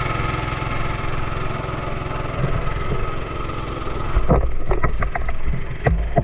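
Small boat engine running steadily with a fast even beat. About four seconds in, the sound changes and a handful of sharp knocks and thumps break in.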